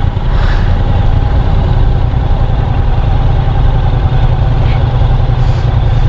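Honda NC750 DCT motorcycle engine running slowly as the bike pulls in to a stop: a loud, steady low rumble.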